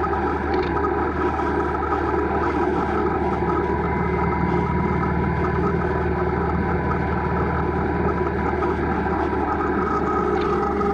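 Steady drone of a ride in motion: a constant low hum with several steady tones over a rush of noise, holding level throughout.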